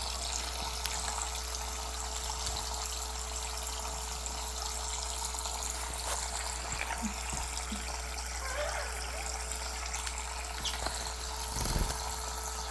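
Water running steadily in a small stream, with a steady hum and a faint constant tone underneath.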